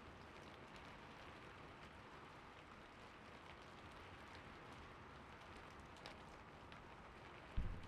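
Gentle rain falling steadily, faint, with a few light ticks through it. A single dull low thump comes near the end.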